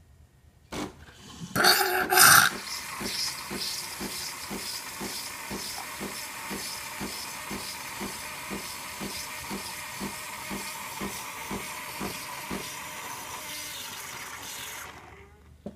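DeLonghi Lattissima Nespresso capsule machine running: a click, a loud sputtering burst as it starts, then its pump pulsing about twice a second under a steady hiss of steam and liquid until it shuts off near the end.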